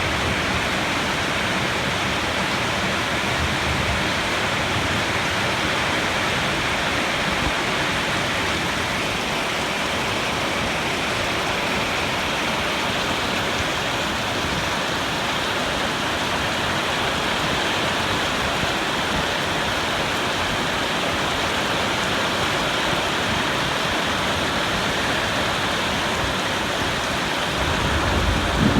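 Steady heavy rain falling, an even hiss with no breaks. A low rumble of thunder starts to build near the end.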